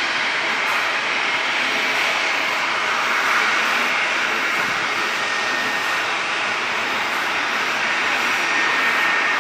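Jet airliner engines running, a steady even rush of noise with a faint high whine coming in near the end.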